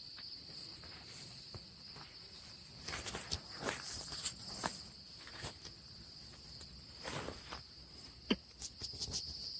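Late-summer insects trilling steadily: a constant high cricket trill with a rapid, even pulsing above it, and a few soft rustles and clicks in the middle.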